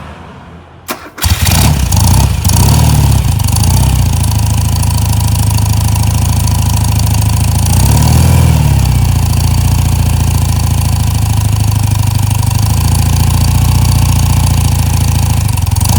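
1978 BMW R100S air-cooled flat-twin (boxer) engine cold-started on full choke: the starter turns it over briefly and it catches about a second in, then runs on fast idle, with two short revs of the throttle, one about three seconds in and one about eight seconds in.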